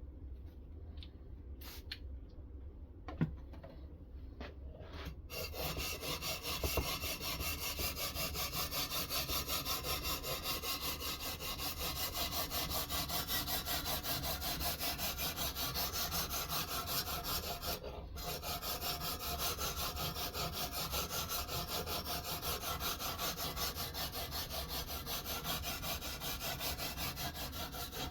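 Ruixin Pro sharpening stone on a guided sharpening system stroked rapidly back and forth along a knife edge: a steady, rhythmic scraping. It starts about five seconds in after a few light clicks and breaks off briefly about two-thirds of the way through.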